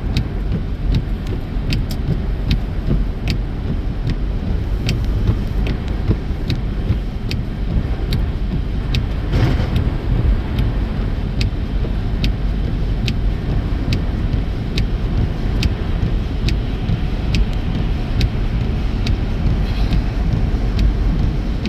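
Road noise of a car driving on a snowy highway, heard inside the cabin as a steady low rumble. A light tick repeats about every half second to two-thirds of a second, and there is a brief louder rush about nine seconds in.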